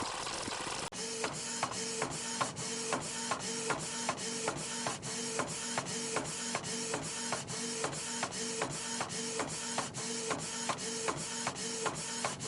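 3D printer running: its stepper motors give short pitched whines in quick, evenly repeated moves, alternating between two pitches, with a click about three times a second.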